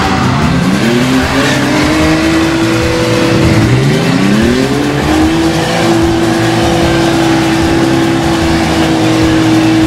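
Toyota Supra 3.0-litre twin-turbo straight-six in a Land Rover 90 off-road prototype, revving up hard twice under load, its pitch rising each time and then held high and steady.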